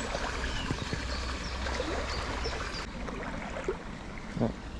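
Shallow river water running and gurgling over stones, a steady rush with a low rumble beneath it. A brief low pitched sound stands out near the end.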